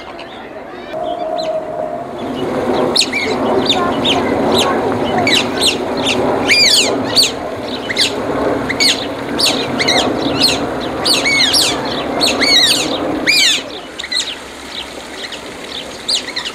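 Small birds chirping in a rapid, dense run of short high calls over a steady noisy murmur; both die away near the end.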